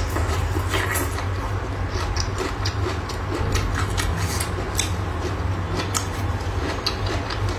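Close-up eating sounds: irregular crisp clicks and small crunches of chewing and utensils, over a steady low hum.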